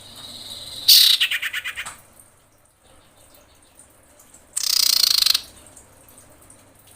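Female common iora calls: a thin whistled note, then about a second in a loud, rapid rattling trill that fades away, and a loud harsh rasping call near the middle. A female in breeding condition calling for a male, the kind of call used as a lure for trapping.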